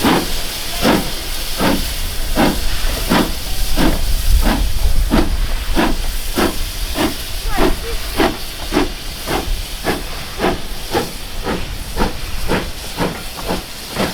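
Steam locomotive pulling away, its chimney exhaust beats quickening from slow, separate chuffs to a faster rhythm of about two a second. A low rumble sits under the beats.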